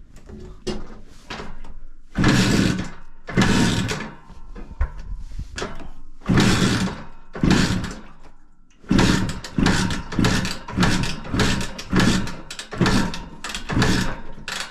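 Benelli 250 2C two-stroke twin being kicked over and catching, with loud, uneven bursts of firing and then quicker pulses about twice a second from about nine seconds in. It is running low on fuel, which the owner takes for the reason it dies.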